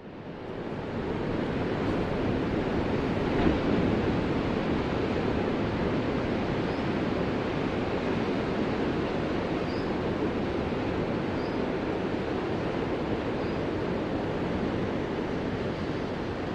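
Ocean surf as a steady wash of noise, fading in from silence over about a second, with one brief louder surge about three and a half seconds in.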